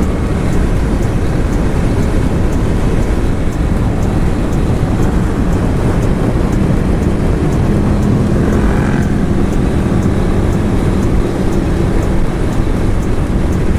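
Motorcycle riding at road speed, heard onboard: a steady rush of wind over the microphone with the engine running underneath.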